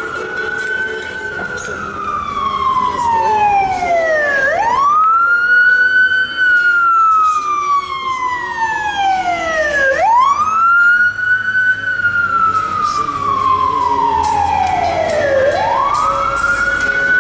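Emergency vehicle siren in a slow wail: each cycle rises quickly, then falls slowly over about five seconds, with about three full cycles and a fourth rising near the end.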